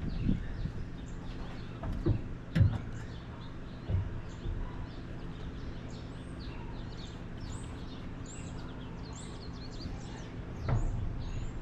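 A few sharp knocks and thumps, the loudest about two and a half seconds in, over a steady low hum, with small birds chirping in the background in the second half.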